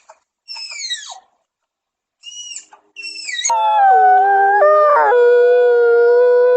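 A few short, high calls, each falling in pitch, then from about halfway a long, loud canine howl that holds its note and shifts pitch in a couple of steps.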